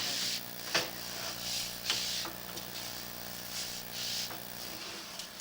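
Steady low electrical hum with a few soft clicks and intermittent hissy rustling; the hum cuts off near the end.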